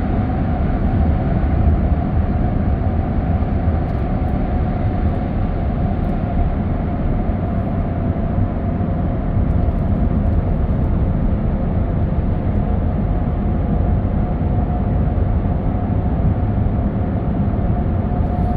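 Car driving at a steady speed: even road and tyre rumble with a faint steady whine, unchanging throughout.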